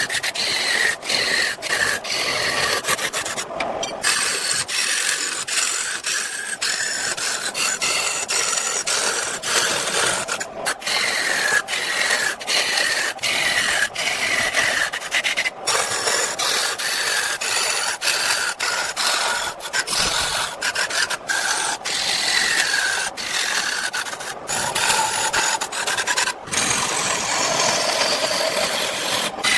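Wood being rasped and ground down as the log is shaped: a steady rasping with repeated falling sweeps in pitch, broken by many very short gaps.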